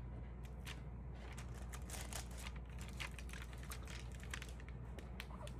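Stamp album pages being handled and turned: a faint, quick run of small crinkles and clicks.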